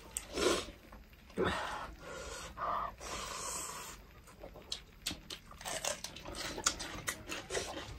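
Close-up eating sounds: chewing and breaths, then crisp crunching clicks in the second half as a raw bell pepper is bitten and chewed.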